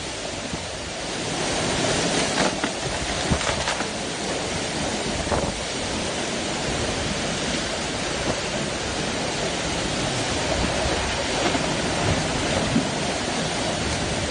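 Storm wind blowing hard and steadily, buffeting the microphone; it grows louder about a second in. A few faint knocks are heard between about two and five seconds in.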